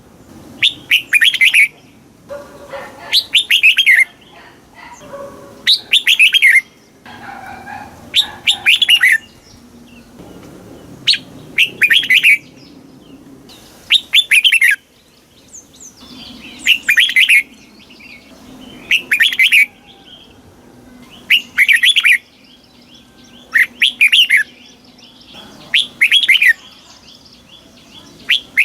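Red-whiskered bulbul singing: short, bright warbled phrases repeated about every two seconds, with quieter chirps in the gaps.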